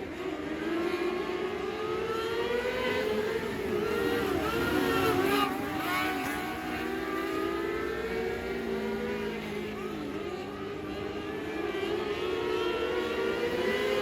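Several race car engines running on track at once, their pitch rising and falling as the cars accelerate and back off.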